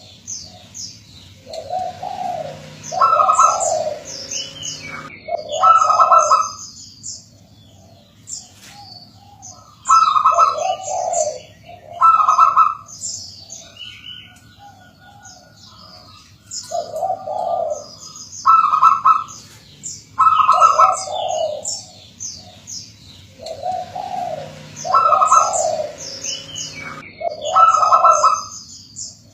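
Zebra dove (perkutut) cooing: short clusters of coo notes repeating every few seconds, with thin, higher chirps heard alongside.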